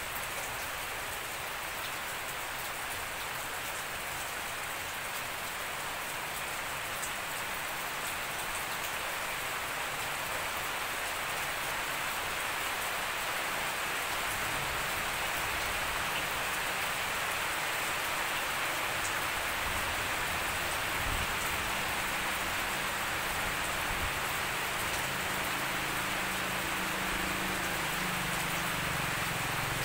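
Steady rain falling on a garden lawn, leaves and puddles: a dense, even hiss. From about halfway a low engine hum rises underneath and climbs in pitch near the end, from a motorcycle approaching.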